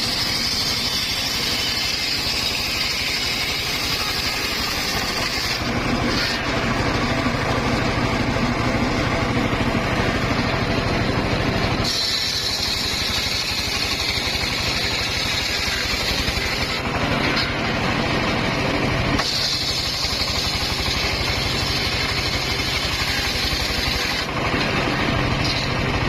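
Engine-driven circular saw running steadily, with a high whine that comes and goes in stretches of several seconds as the blade cuts through wood.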